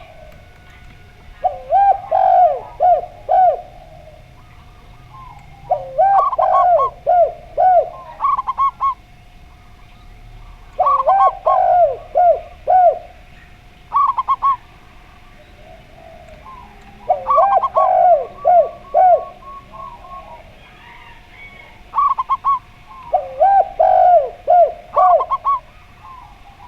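Zebra dove and spotted dove cooing in five phrases of quick, falling coo notes, each phrase about two seconds long and repeated about every five seconds, over a faint steady hum.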